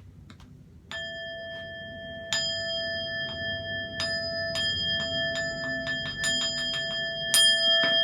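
Buddhist bowl bell (keisu) struck to open sutra chanting: three spaced strokes, then a quickening roll of lighter taps, then one loud stroke near the end, its ringing tone carrying on throughout.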